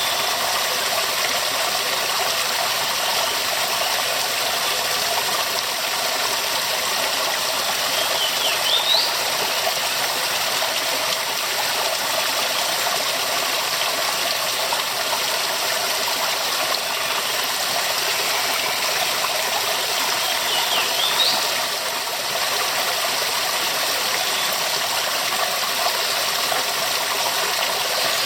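Waterfall, water pouring and splashing in a steady, loud rush. Twice a brief high rising chirp rises above it, about a third of the way in and again about three quarters in.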